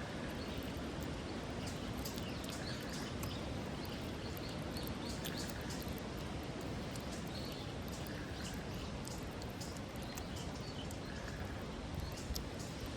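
A cat chewing dry food: a run of small, irregular crunching clicks over a steady outdoor hiss.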